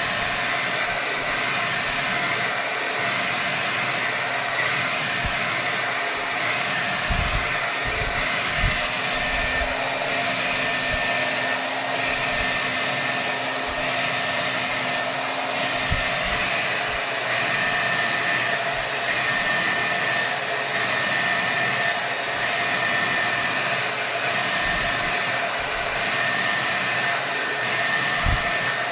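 Hair dryer running steadily on full power, a constant rush of air with a steady motor whine on top, and a few soft low bumps.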